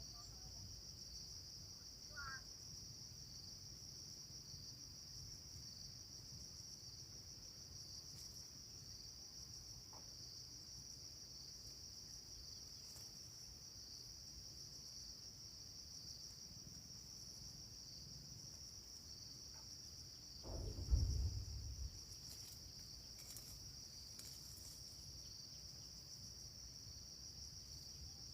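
Steady high-pitched chorus of crickets or other insects, with a dull low thump about three quarters of the way through.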